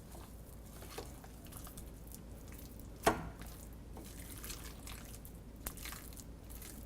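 Chicken pieces in a wet egg, flour and spice marinade being mixed in a bowl: soft wet squishing with scattered small clicks, and one sharp knock about three seconds in.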